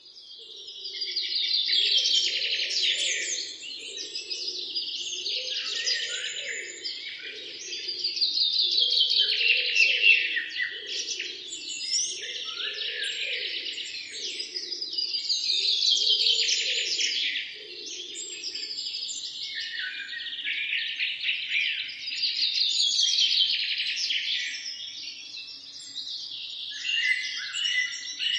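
Birds chirping and singing together in dense, loud choruses that swell about every six or seven seconds. A lower, pulsing sound runs underneath until about two thirds of the way through.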